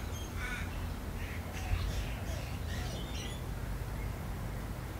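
Birds calling, a scattering of short chirps, over a steady low hum.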